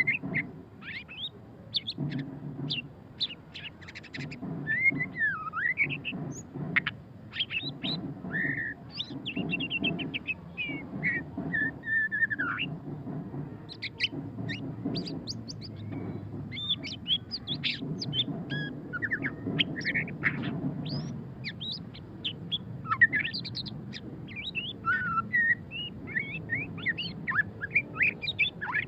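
White-rumped shama singing a fast, varied song of short chirps and sweeping whistled notes, tumbling on with barely a pause in the chattering style known as ngeriwik.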